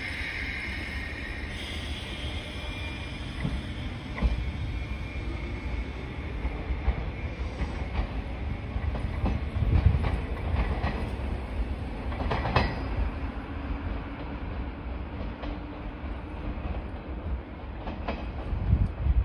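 JR West 201 series electric commuter train pulling out and moving away, with a steady low rumble and scattered sharp clacks of the wheels over the rail joints. A high tone at the start drops out about two seconds in.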